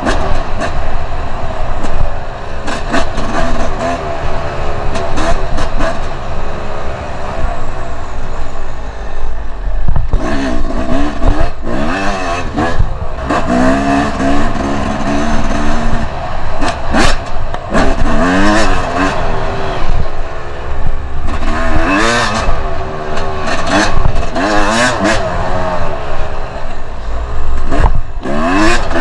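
Two-stroke enduro dirt bike engine being ridden hard, revving up and falling back again and again as the throttle is worked, with frequent knocks and rattles over a constant low rumble.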